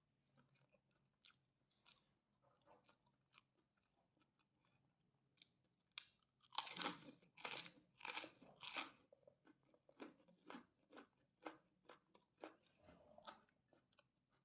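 A person eating fried rice with kerupuk crackers: faint chewing at first, then about six seconds in four loud crisp crunches in quick succession as the crackers are bitten, followed by softer chewing.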